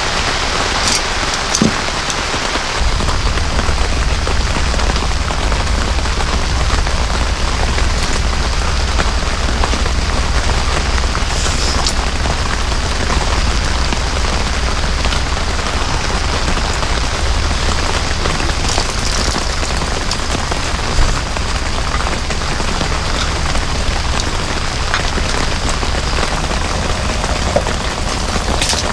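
Heavy rain pouring down steadily, with a low rumble joining about three seconds in.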